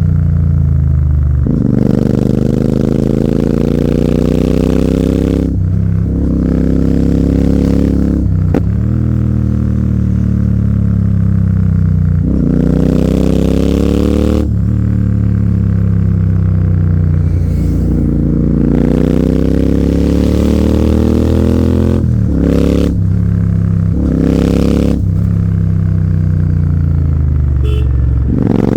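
Royal Enfield Continental GT 650's 648 cc parallel-twin engine through an AEW 103 aftermarket exhaust, running hard under way. The pitch climbs and falls and breaks off sharply about ten times as it shifts gear and rolls on and off the throttle.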